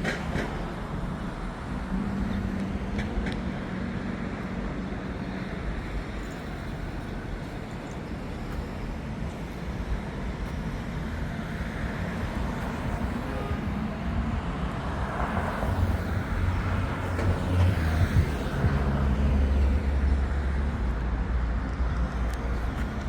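Downtown street traffic heard from a moving bicycle: a steady wash of cars and road noise. A nearby vehicle engine grows louder in the second half, loudest around 18 seconds in.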